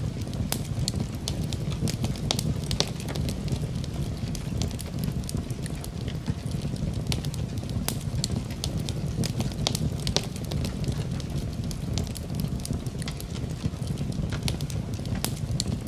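Wood fire burning in a fireplace: a steady low rumble of flames with many irregular sharp crackles and pops from the burning wood.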